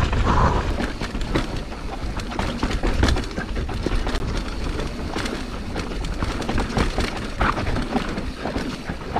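Mountain bike descending a dry, loose dirt trail: a steady rumble of tyres over dirt and rock, with frequent clicks and knocks as the bike rattles over the ground.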